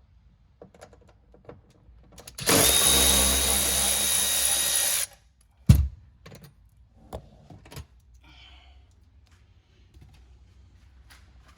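A power drill runs steadily for about two and a half seconds, driving out fasteners, then stops. A sharp knock follows, with a few light clicks of parts being handled.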